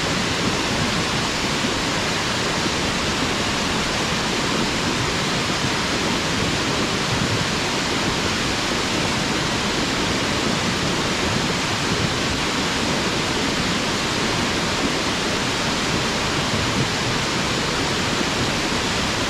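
Waterfall: water falling steadily into a pool, a constant even rush.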